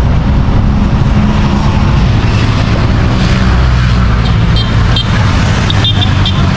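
Loud, steady road traffic: vehicle engines running close by, with a few short high chirps about four to six seconds in.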